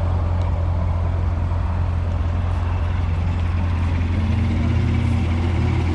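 Car engine idling steadily with a low hum; a second, slightly higher engine note joins about four seconds in.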